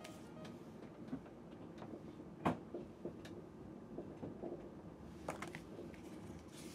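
Low, steady running rumble of a moving sleeper train heard inside the cabin, with a few sharp clicks and knocks; the loudest comes about two and a half seconds in.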